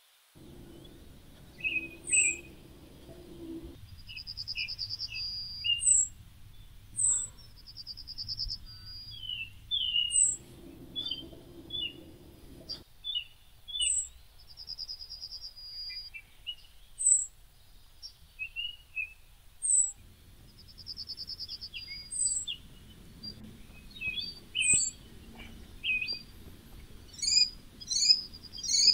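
Birds chirping and singing: short high chirps repeat every second or two, with a buzzy trill now and then, over a faint low background noise.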